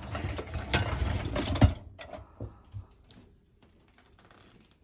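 A dishwasher's racks or door being handled: about two seconds of dense mechanical rattling and clicking, ending in one sharp knock, then only a few faint clicks.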